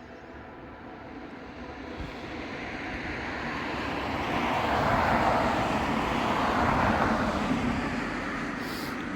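A vehicle passing on the road. Its tyre and engine noise swells over about five seconds, stays at its loudest for a couple of seconds, then fades.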